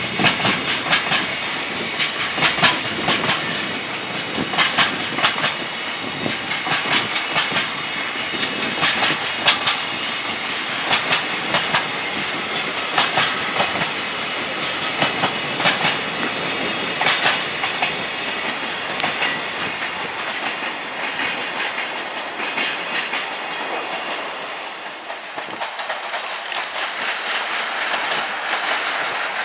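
Freight train wagons rolling past, their wheels clacking over the rail joints in repeated clusters of clickety-clack. There is a brief lull near the end before the clacking picks up again.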